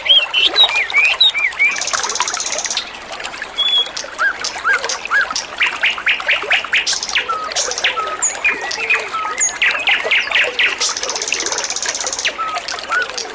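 Songbirds chirping and whistling over a steady trickle of running water. Short upslurred whistles and quick runs of rapid falling chirps come one after another, with two brief buzzy trills about two seconds in and again near the end.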